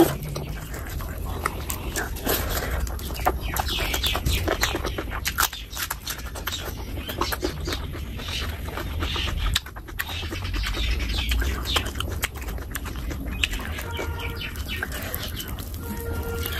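Close-miked wet chewing and lip-smacking of a person eating curried chicken skin and rice by hand, a dense run of many small, quick mouth clicks.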